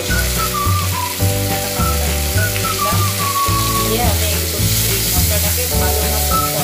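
Onions and ginger-garlic paste sizzling in hot oil in a nonstick wok as chopped tomatoes are added, stirred with a wooden spatula; the sizzle grows stronger about halfway through. Background music with a melody and a bass line plays over it.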